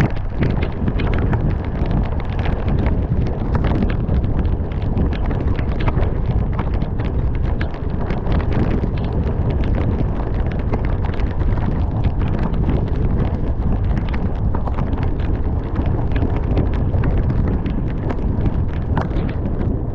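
Heavy rain driving against the camera during a drive, with many sharp drop impacts over a steady low rumble of wind and tyres on the wet road.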